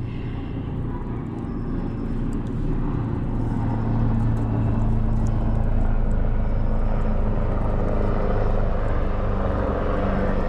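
Helicopter flying overhead, a low steady drone that grows louder over the first few seconds and then holds.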